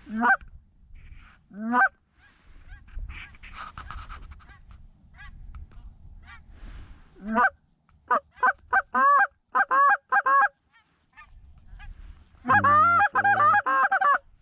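Goose honking: a few single rising honks, then a string of short honks, and a fast, dense run of honks and clucks near the end.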